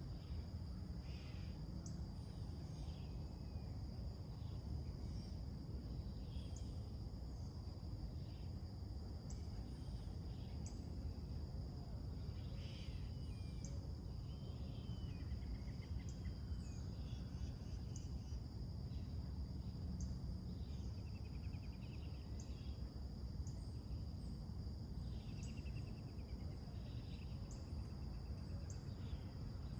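Summer morning soundscape: a steady high-pitched insect drone, with scattered short bird chirps and trills over a constant low background rumble.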